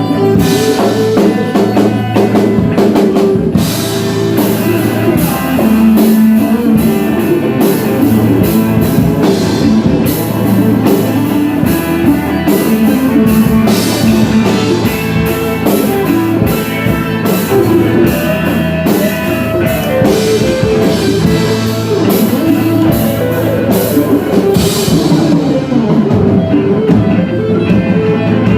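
A band playing rock music, with a drum kit keeping a steady beat under guitar. The music is loud.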